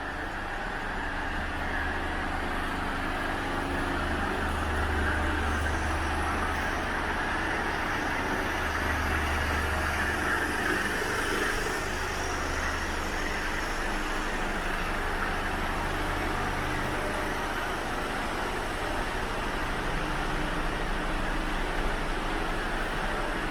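Steady low drone of a heavy vehicle's engine running, with an even road-noise hiss; the drone swells about a quarter of the way in and eases off in the second half.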